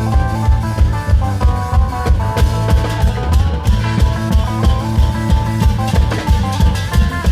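Isan klong yao long-drum troupe music: drums beating a fast, steady rhythm with a melody line played over them.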